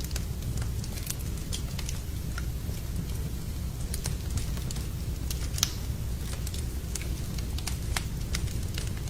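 Wood fire in a fireplace crackling, with irregular sharp pops over a steady low rumble, and one louder pop about five and a half seconds in.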